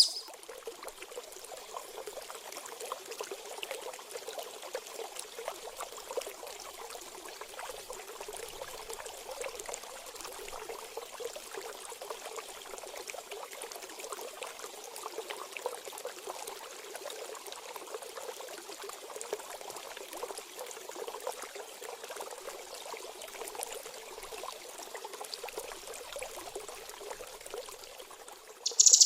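Steady trickling running water, an unbroken stream with no bird calls, used as a water-therapy break between bird-song passages.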